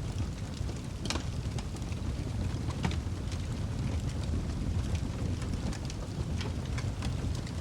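Wood fire in a fireplace burning with a steady low roar of flames and scattered sharp crackles and pops from the logs, a louder pop about a second in and another near three seconds.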